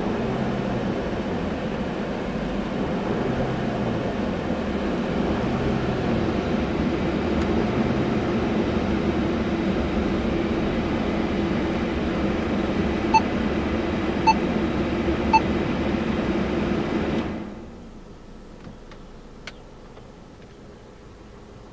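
Car engine running at a raised idle, around 2000 rpm easing to about 1800 rpm, heard from inside the cabin as a steady hum. Three short beeps come about a second apart past the middle. Near the end the hum cuts off to quiet room tone with a couple of faint clicks.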